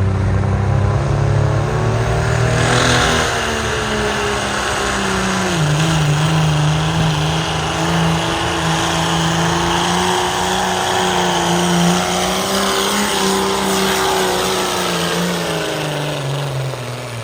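A pulling vehicle's engine running hard under load down the track, its pitch shifting and dipping a few seconds in, then holding steady before falling away near the end.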